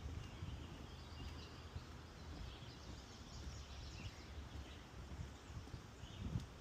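Several birds chirping and singing in a swamp forest, over the low thuds of footsteps on a wooden boardwalk.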